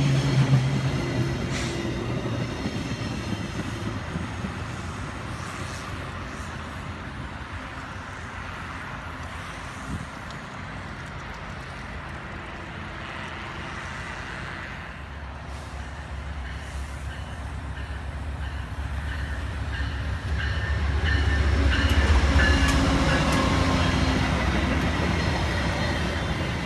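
Diesel-hauled VIA Rail passenger train passing close by: a low engine rumble builds from about halfway through, with wheel-on-rail noise and a thin high squeal, loudest a few seconds before the end. At the start the cars of another passing train fade away.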